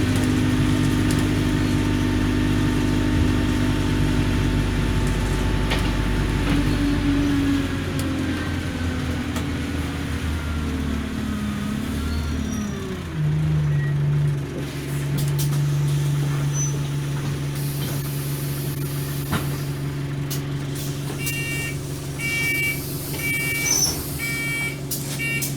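Enviro200 single-deck bus engine running with a steady hum, its note dropping and settling about halfway through. Near the end, a series of about five short electronic beeps, roughly one a second, sounds over it.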